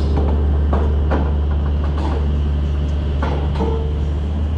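Heavy machinery engine running with a steady low drone, with scattered knocks and clatter over it.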